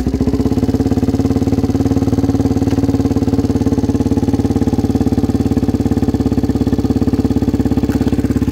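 1986 Honda XR250R's single-cylinder four-stroke engine running steadily right after catching on a kick-started cold start, choke on, with a fast even beat of exhaust pulses.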